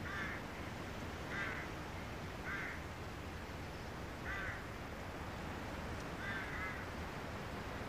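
A handful of short bird calls at irregular intervals over a steady background hiss.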